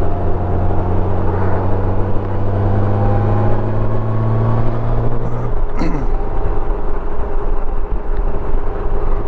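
Riding noise from a Honda Gold Wing motorcycle pulling a trailer on the highway: wind and road noise with a low engine hum. The hum rises slowly in pitch, then drops away about five and a half seconds in, with a short click.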